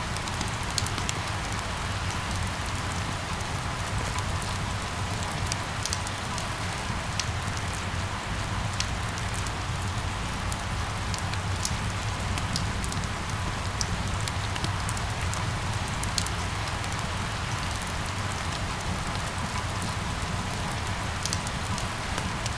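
Steady rain falling, with scattered sharp drop ticks over it and a low steady rumble underneath.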